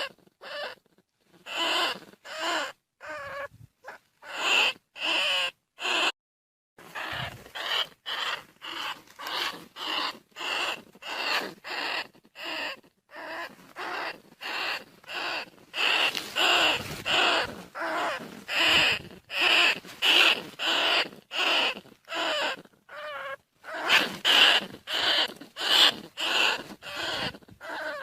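Bandicoot rat squeaking: a steady run of short, shrill squeaks, about two a second, with a brief pause about six seconds in. It is a rat call of the kind played as a lure to bring rats in.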